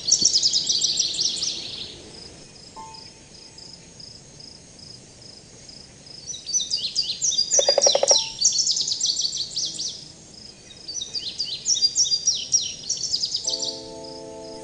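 Songbird singing in three bursts of rapid high chirping phrases, over a faint steady pulsing insect chirr. A short buzzing call sounds about eight seconds in, and a chord of steady held tones starts just before the end.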